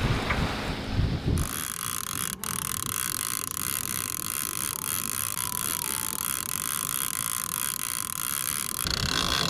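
Fishing reel ratcheting steadily with a fine, even clicking as line runs on the reel while a tuna is played.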